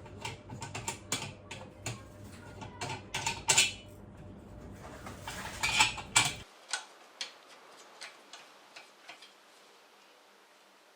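Hand tools and small metal motorcycle-engine parts clicking and clinking irregularly as the engine is dismantled, with a low steady rumble underneath that stops about six seconds in; after that, only lighter, sparser clicks.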